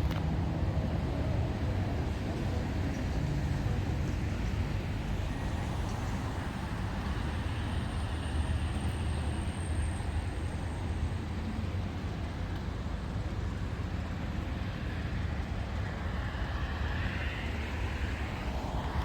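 Highway traffic: a steady low rumble of cars and trucks driving past, with one vehicle passing more closely near the end.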